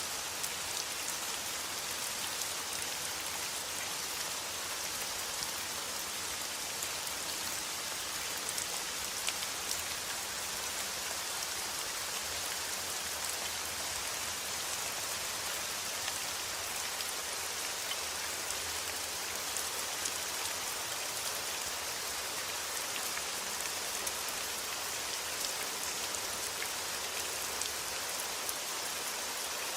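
Steady rain falling onto a surface: an even hiss with faint scattered drop ticks.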